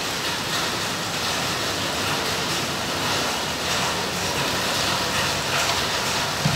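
Heavy monsoon rain pouring down with a steady, even hiss over a flooded entrance.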